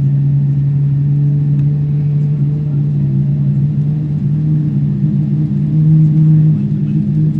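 Steady low drone inside a Boeing 777 cabin waiting before taxi, a hum of several tones that shifts slightly in pitch near the end.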